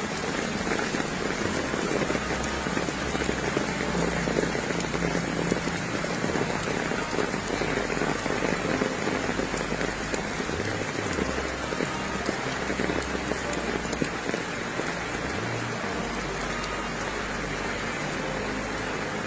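Steady rain falling, an even hiss of drops on surfaces, with a low rumble that comes and goes underneath.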